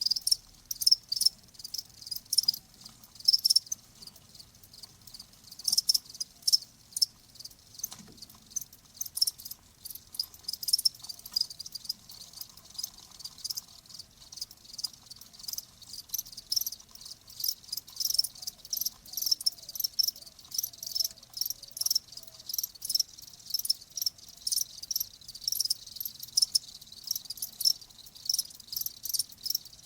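Crickets chirping in quick, uneven pulses, several overlapping, high-pitched and continuous.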